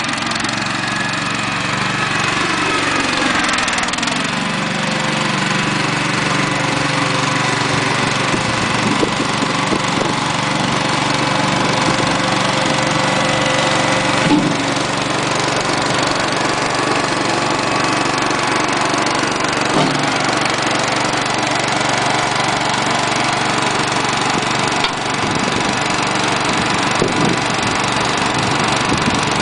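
Small garden-tractor engine running; its pitch drops a couple of seconds in as it slows, then holds steady, with a few light knocks along the way.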